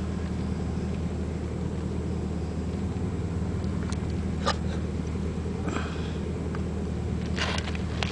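Suzuki GSX-R600 inline-four engine idling steadily as a low, even hum, with a few light clicks and knocks about halfway and near the end.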